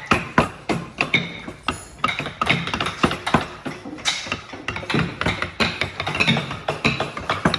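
Many sharp knocks and taps in quick, irregular succession, several a second, like wood or metal being struck.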